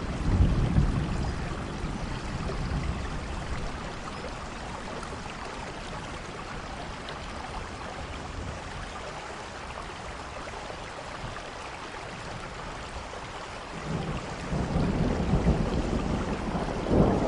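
Steady rain, an even hiss, with a low rumble swelling up about a second in and again over the last few seconds.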